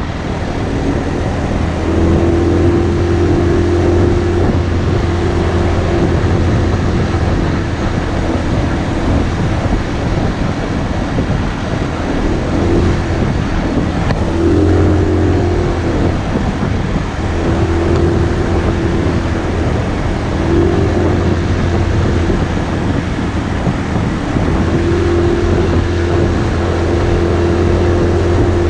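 Motorcycle engine running under way, with heavy wind rushing over the microphone. The engine's note steps up and down slightly a few times.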